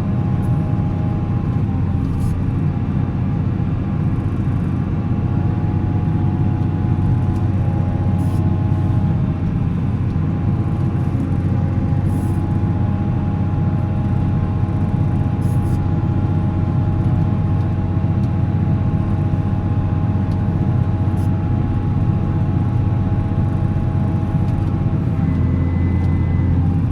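Volvo L70C wheel loader's diesel engine running steadily, with a steady whine over its drone. A short high tone sounds near the end.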